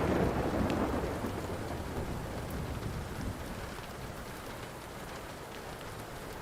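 A thunder rumble loudest at the start, fading away over the first couple of seconds, over steady rain, with a few faint crackles of a wood fire.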